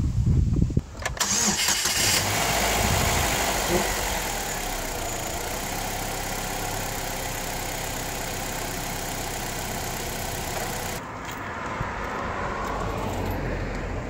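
A 2005 Saturn Ion's 2.2 L Ecotec four-cylinder engine starts about a second in, then settles to a steady idle. It is a fresh start after an oil change, to circulate the new oil.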